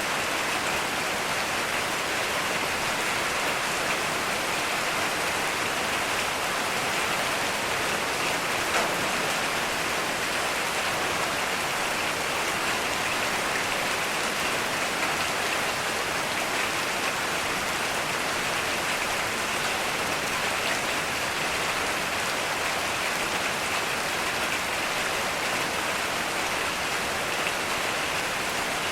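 Heavy rain falling steadily, an even, unbroken hiss of countless drops striking a surface.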